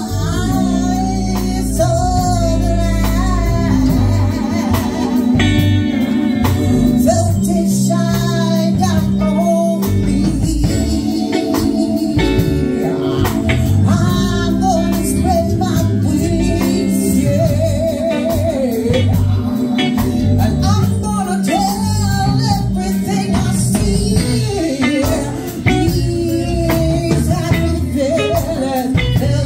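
Live band music: a singer over electric guitar, bass and a steady beat, in a blues style.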